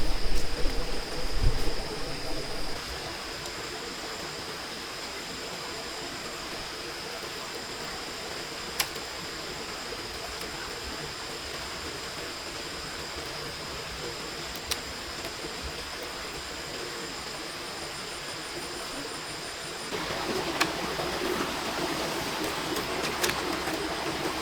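Steady hiss of falling rain with a thin high tone running through it; the hiss grows louder about twenty seconds in, with a few sharp clicks.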